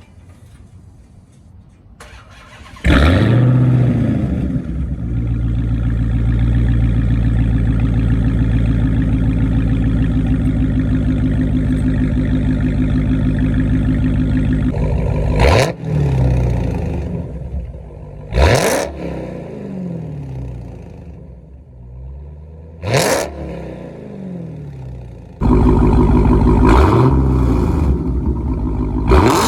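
2019 Dodge Charger Hellcat's supercharged 6.2-litre V8 with its mid mufflers deleted, exhaust sounding loud: it starts with a sudden flare about three seconds in, holds a steady idle, then is revved in sharp blips that fall back to idle, three in the middle and more near the end.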